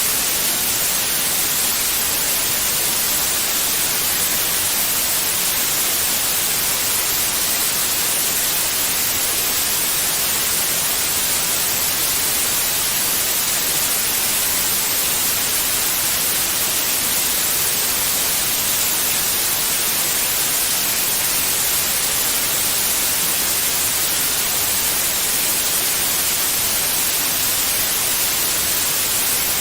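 Steady, unbroken white noise: an even hiss with most of its energy in the high frequencies, played continuously as a soothing sound for babies.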